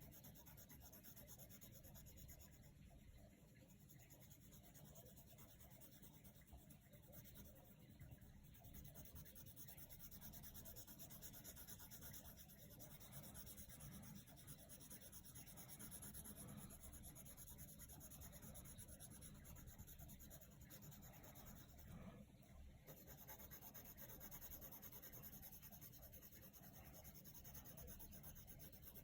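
Coloured pencil scratching on paper in continuous colouring strokes, faint.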